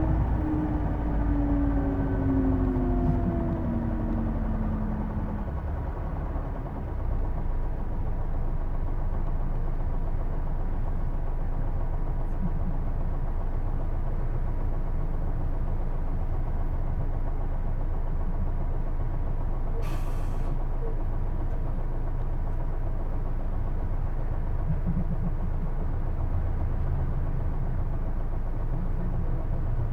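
Interior running sound of a Hino Blue Ribbon II PJ-KV234L1 diesel city bus: a steady low engine rumble. Over the first five seconds a whine falls in pitch; the recordist describes this bus's distinctive transmission noise as sounding almost like an automatic. There is a brief hiss about twenty seconds in.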